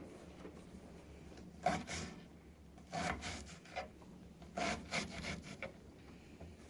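Scraping strokes on wood, in three short bursts, as a hand tool works wood.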